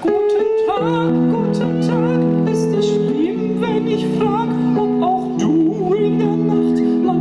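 Live band music: sustained electric-piano chords with a wavering melody line over them and light percussion ticking along.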